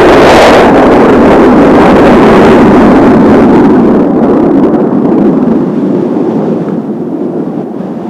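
Jet noise of Kawasaki T-4 trainers in a four-ship formation passing, with a loud, steady rush that fades away from about four seconds in.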